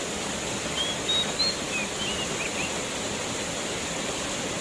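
Waterfall rushing steadily, with a quick run of short high chirps about a second in.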